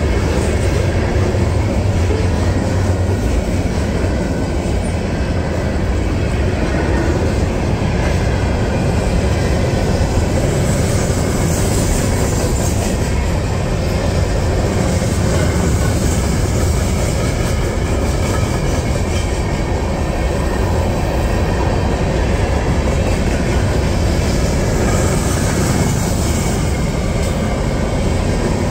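CSX freight train's cars rolling past at close range: a continuous, steady rumble of steel wheels on the rails.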